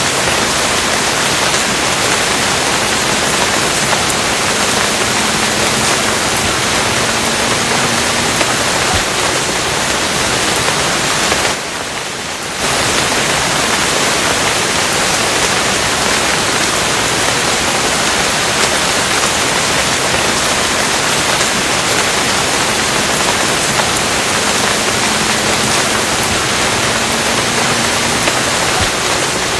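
Steady, dense rain noise, even and unbroken, which dips briefly in level for about a second about twelve seconds in.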